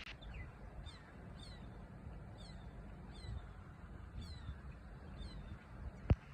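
A bird calling: about seven short, high chirps, each falling in pitch, spaced unevenly, over a low background rumble. A single sharp click comes near the end.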